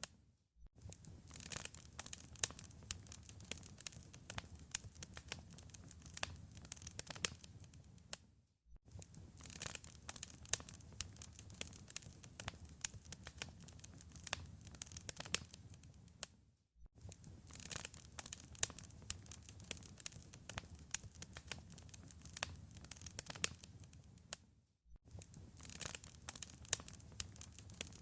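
Wood fire in a fireplace crackling: a dense run of sharp pops and snaps over a low rumble of the flames. It drops out to near silence for a fraction of a second about every eight seconds.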